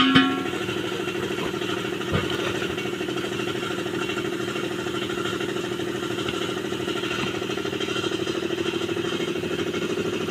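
An engine idling steadily with an even, rapid pulse. A few sharp clicks come right at the start and another about two seconds in.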